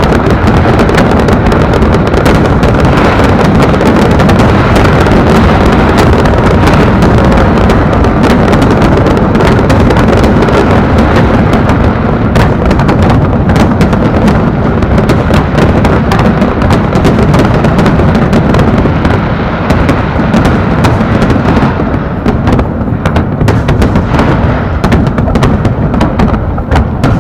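Fireworks display: a loud, near-continuous barrage of bangs and booms over a low rumble, easing slightly near the end.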